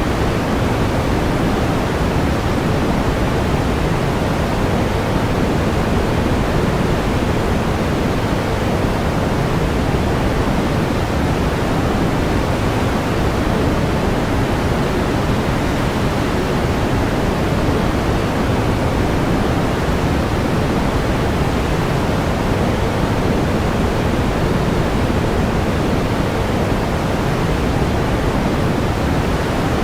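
Steady pink noise: an even, unchanging hiss-like rush, fuller in the lows than the highs.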